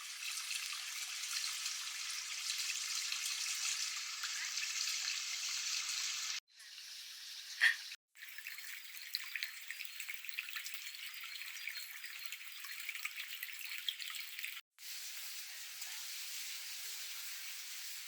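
Steady running, trickling water, with the sound cut short three times where short clips are joined; a brief faint squeak comes about seven and a half seconds in.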